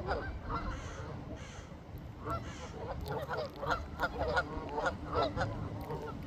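A large flock of ducks calling over one another: many short quacks in quick, overlapping succession, thickest in the middle.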